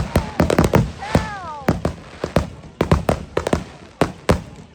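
Fireworks exploding in quick, irregular succession, about fifteen sharp bangs. A short falling pitched tone comes about a second in.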